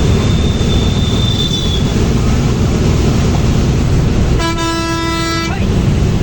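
Steady low rumble of a moving vehicle's engine and road noise, with a vehicle horn sounding once for about a second, a little over four seconds in.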